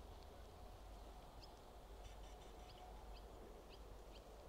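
Near silence with faint, short rising bird chirps, repeating about every half second from roughly the middle on.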